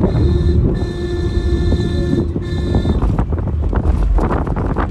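Car on the move: a steady low rumble of road and engine, with wind buffeting the microphone. A steady tone hangs over it for the first couple of seconds.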